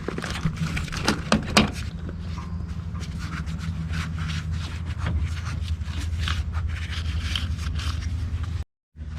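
Scraping and rubbing with many small clicks and knocks as wiring and metal parts are handled and pulled, over a steady low hum. The sound cuts out briefly near the end.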